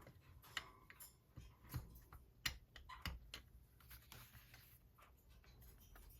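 Faint, scattered light taps and clicks, a handful in the first three seconds and then quieter: a rubber stamp being tapped on an ink pad and pressed onto paper.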